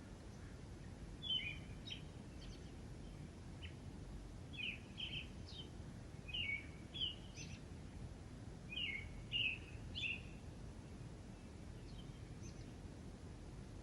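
Small birds chirping: short calls in clusters of two or three, recurring every second or two, over a steady low background rumble.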